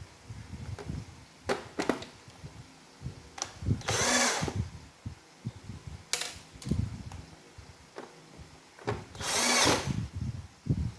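Handheld electric screwdriver running in two short whirring bursts, about four and nine seconds in, as screws are driven during reassembly of a Roomba robot vacuum. Between them are scattered light knocks and clicks of parts being handled.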